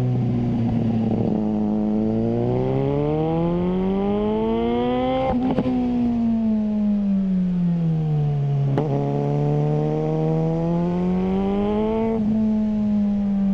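Suzuki GSR600's inline-four engine through a GPR Ghost aftermarket exhaust, its pitch climbing slowly for about four seconds and then falling away, twice. A sharp crack at each peak comes as the pitch turns and the throttle closes, with another short crack in between.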